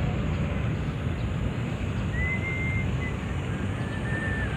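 Birds calling among park trees: a few thin, drawn-out whistled notes about two seconds in and again near the end, over a steady low outdoor rumble that is the loudest thing heard.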